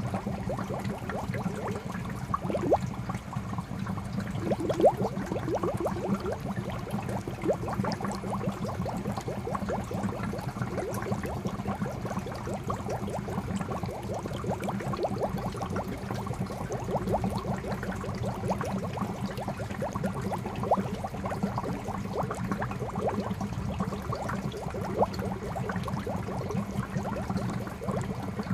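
Water from a fountain spout pouring steadily into a koi pond, a continuous splashing with many small bubbling plops.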